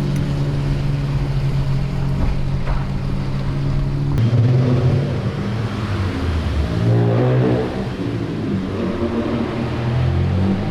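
Car engine idling steadily, then revving and pulling away about four seconds in, with its pitch rising again in climbs near seven and ten seconds.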